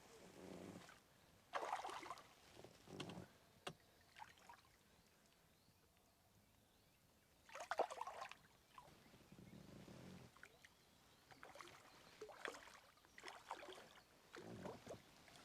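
Faint, scattered splashes and sloshes of water from a hooked mirror carp being played close in and landed, the loudest about a second and a half in and again near eight seconds.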